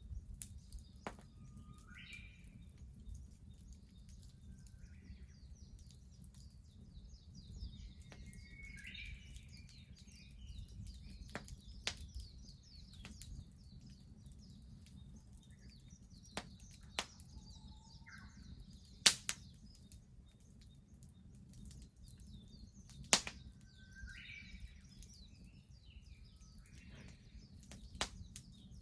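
Garden wood fire crackling with scattered sharp pops, two much louder ones in the second half. Birds call a few times in the background.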